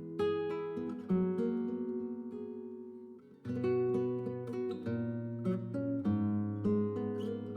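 Background music: acoustic guitar playing plucked and strummed chords, fading out briefly about three seconds in and then starting up again.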